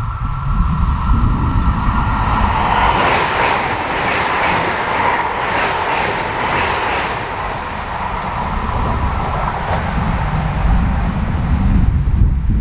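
Train passing on an electrified mainline: a rushing wheel-and-rail noise that swells to its peak about three to seven seconds in and then eases, over a low rumble, with a steady whine that stops a couple of seconds before the end.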